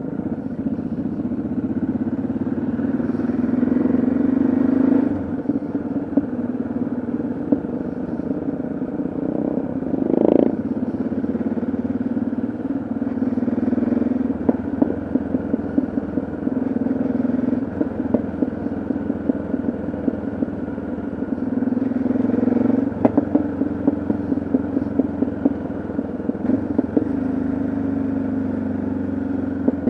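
Yamaha XT660Z Ténéré's single-cylinder four-stroke engine running on the road, the throttle opening and easing off several times. There is a short louder burst about ten seconds in.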